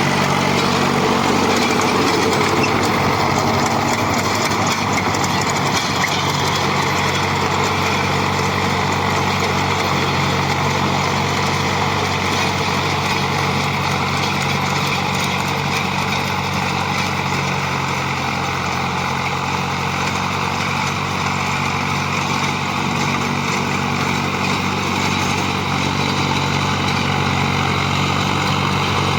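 Tractor's diesel engine running steadily at constant speed while working a field with a rotavator.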